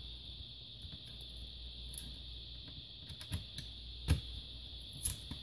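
Scattered small clicks and taps of plastic laptop case parts being handled and pressed into place, the loudest knock about four seconds in.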